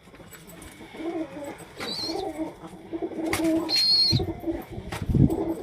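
Domestic pigeons cooing over and over, with two brief high chirps from a smaller bird about two and four seconds in. Two low thumps come near the end.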